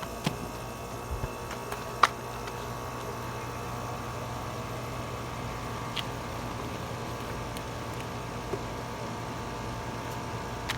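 A 2021 American Standard Silver Series 2.5-ton air conditioner starting up and running with a steady hum. A few sharp clicks come through, the loudest about two seconds in, after which the hum grows slightly louder.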